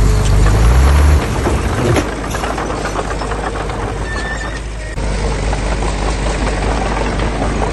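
Heavy diesel engine of earthmoving machinery running, with a loud low rumble for about the first second that then settles to a steadier, quieter run.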